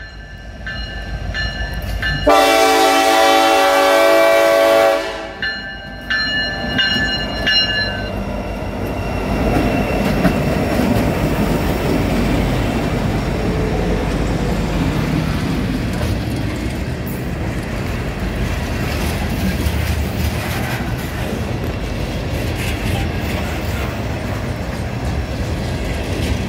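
Norfolk Southern diesel freight locomotive's horn blowing a long blast for the road crossing about two seconds in, trailing off over the next few seconds. Then the locomotives rumble past and a string of loaded rock hopper cars rolls by, wheels clickety-clacking on the rails.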